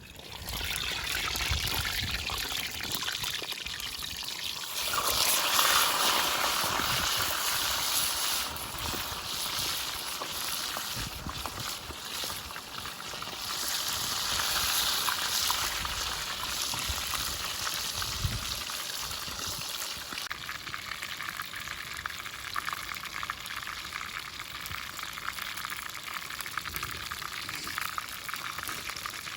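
Chicken frying in hot oil over an open wood fire, a steady sizzle that starts suddenly and swells about five seconds in.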